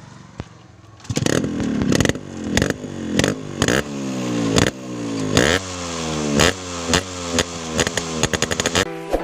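Royal Enfield Interceptor 650's parallel-twin engine through a custom-made exhaust: running quietly for about a second, then revved in repeated throttle blips, each with a sharp crack from the exhaust, ending with a quick run of crackles.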